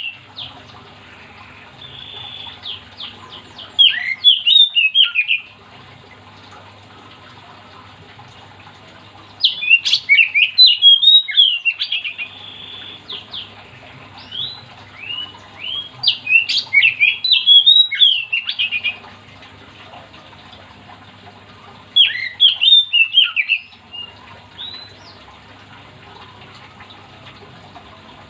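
Oriental magpie-robin (kacer) singing in full voice: four loud phrases of rapid whistled and harsh notes, several seconds apart, with softer notes in between.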